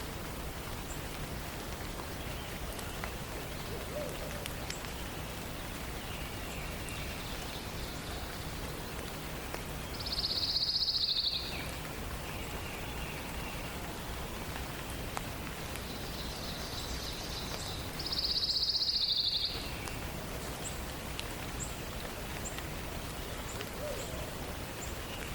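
Morning forest chorus: a songbird sings two short, high, even trills about eight seconds apart, with fainter bird calls between them over a steady background hiss.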